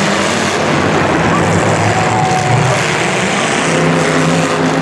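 Vehicle engines running together in a race heat, heard as a loud, steady wash of noise with engine pitch rising and falling underneath.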